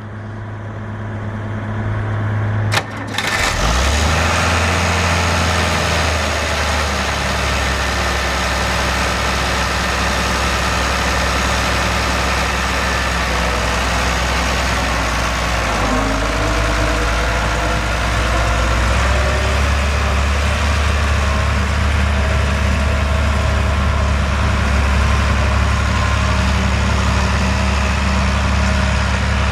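International 86 high-clearance tractor engine running at a steady idle. About three seconds in there is a sharp click, and the engine note drops and settles lower and louder.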